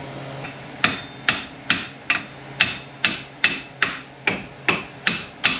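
A steady series of sharp metallic taps or clicks from a hand tool working on metal, about two to three a second, starting just under a second in.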